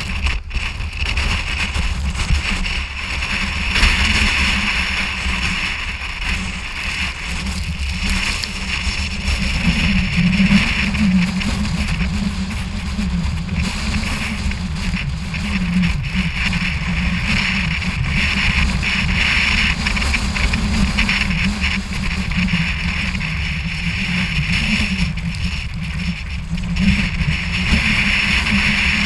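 Continuous loud roar of gale-force storm wind and sea, swelling and easing slightly with no distinct impacts.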